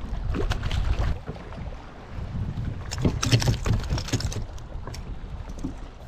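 Wind rumbling on the microphone, and a rapid flurry of knocks and clicks about three seconds in that lasts just over a second.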